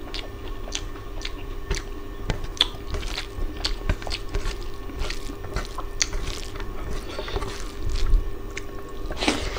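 Close-miked eating sounds: irregular wet clicks and smacks of a man chewing a mouthful of mutton curry and rice, along with his fingers squishing rice and curry together on the plate, over a faint steady hum. One louder noise comes near the end.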